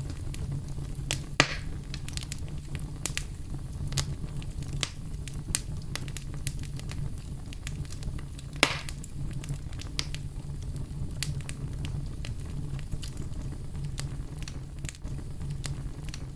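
Wood campfire crackling: a steady low rumble of the flames with frequent small snaps, and two louder pops, about a second and a half in and about halfway through.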